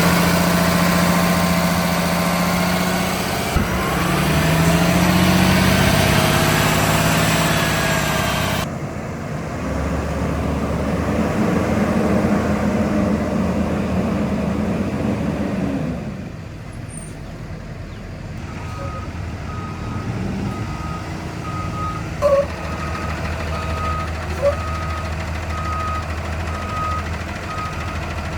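2009 Blue Bird school bus engine running, its pitch shifting a few seconds in, then a lower steady engine hum after a cut. From about two-thirds of the way through, the bus's reversing alarm beeps at an even pace, a little more than once a second, with two short chirps among the beeps.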